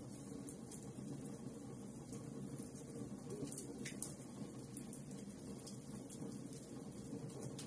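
Wood fire crackling in a fireplace: a steady low rumble of burning logs with scattered small pops and snaps.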